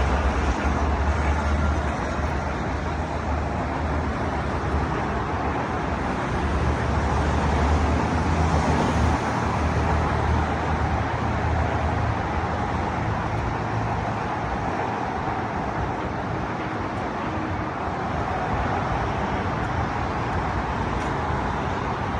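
Car running with steady engine rumble and road noise, swelling slightly a third of the way through, with no sharp revving.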